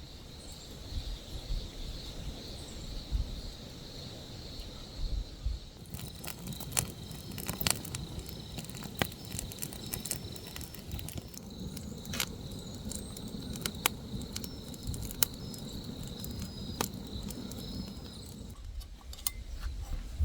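Insects trilling steadily at a high pitch, fading out shortly before the end, with scattered sharp clicks and taps from about six seconds in.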